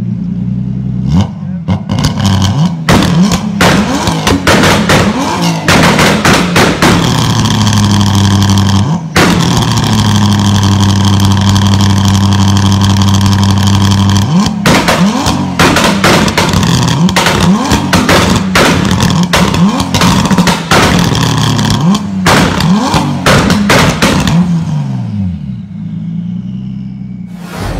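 Tuned car engine revved hard in place, with repeated sharp throttle blips and exhaust pops and bangs. It is held at high revs for about five seconds in the middle, then blipped again and falls back toward idle near the end.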